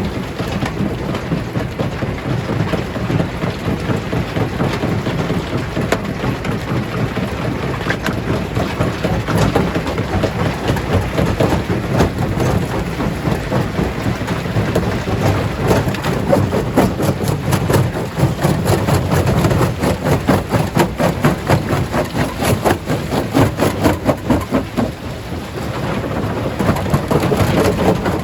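Stone crusher working through rocks: a steady heavy rumble with rapid, dense clattering and cracking of stone, busiest through the middle.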